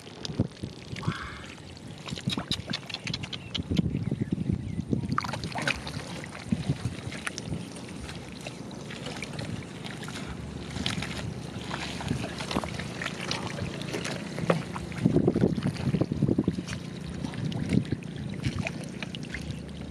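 Irregular splashing and sloshing of muddy water, with short knocks and slaps, as hands and feet work through a flooded mud field.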